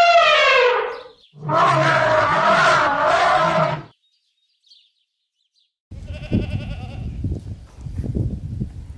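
Animal calls: a long pitched call that falls in pitch and ends about a second in, a second long call, a pause of about two seconds, then rougher, noisier calls.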